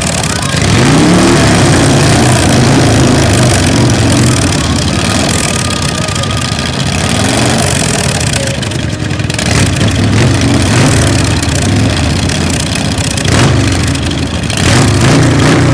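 Custom chopper motorcycle engines being revved, the pitch climbing sharply three times, just after the start, about halfway through and near the end, and settling back to a loud steady run between the revs.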